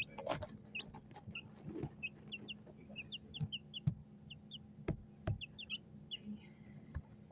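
Small birds chirping: many short, high chirps, a few every second, with several sharp knocks in between.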